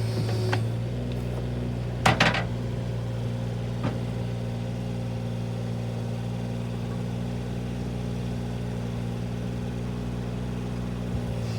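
An engine running at a steady idle, with a loud metallic clank about two seconds in and a lighter knock a couple of seconds later.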